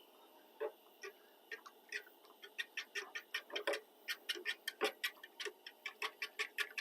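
Fork clicking and scraping against a metal pot while fluffing stuffing, a run of quick light ticks that come faster and more steadily from about two seconds in, with a few duller knocks among them.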